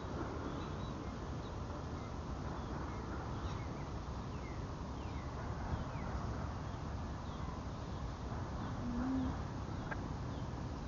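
Steady low rumble of a slow freight train of tank cars rolling past. Small birds give short falling chirps over it, and there is one brief coo about nine seconds in.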